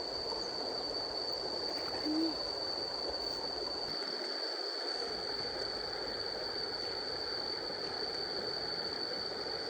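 A short, low hooting call about two seconds in, over a steady rushing background and a steady high-pitched whine.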